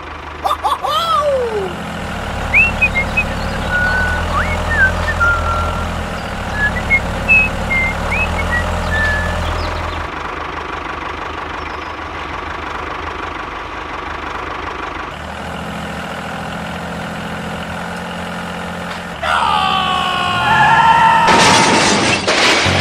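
A steady low engine-like hum, with scattered short high chirps in the first half. About nineteen seconds in, a louder siren-like tone wavers up and down.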